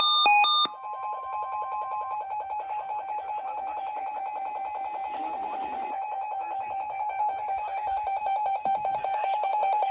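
A short melody of stepped electronic tones ends in the first second. It is followed by a rapidly pulsing electronic alert tone held at one pitch for about nine seconds: an Emergency Alert System attention signal ahead of a flood watch message.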